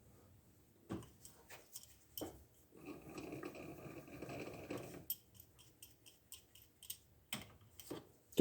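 Metal lathe parts being handled and adjusted: scattered clicks and knocks, a couple of seconds of scraping rub in the middle, then a quick run of small ticks. A sharp knock comes right at the end.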